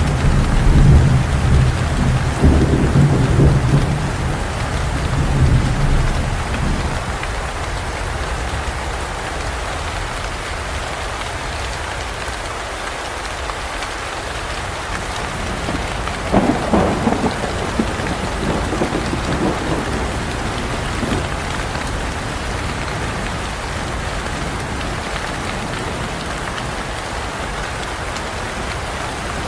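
Steady heavy rain falling, with thunder: a long low rumble in the first several seconds and a sharper clap about halfway through that rolls away over a few seconds.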